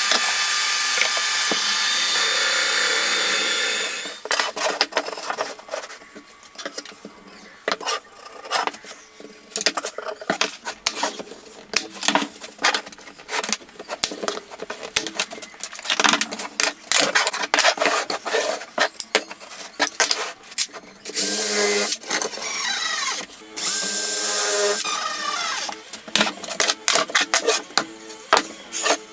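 A power tool runs steadily for about four seconds, then stops. Irregular knocks and clatters follow, with a power drill whirring for a few seconds later on.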